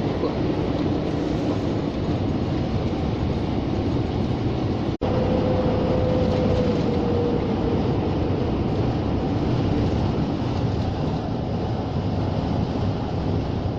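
Steady engine and road noise of a Scania G460 lorry on the move, heard from inside the cab. The sound drops out for an instant about five seconds in.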